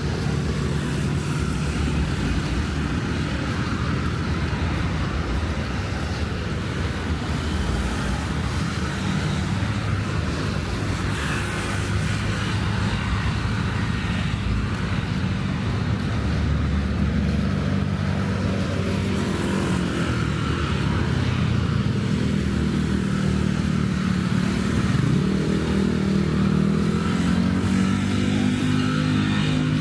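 Road traffic: vehicle engines running steadily by, with one engine rising in pitch as it accelerates near the end.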